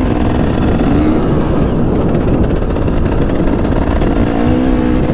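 Dirt bike engine revving hard on a motocross track, its pitch rising and falling with the throttle and climbing near the end, under heavy wind noise on the helmet-camera microphone.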